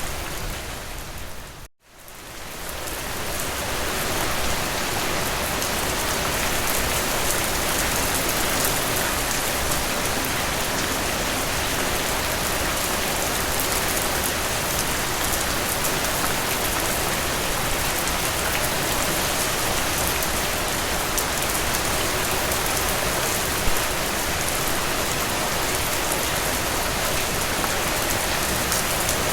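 Steady rain falling. It cuts out briefly about two seconds in, then fades back up to an even, unbroken hiss.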